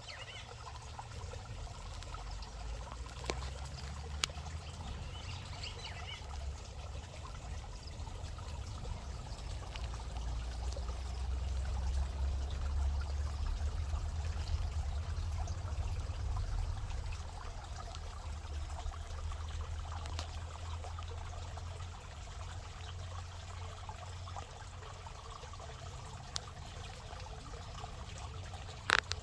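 Water trickling over a steady low rumble that grows louder in the middle, with a sharp click near the end.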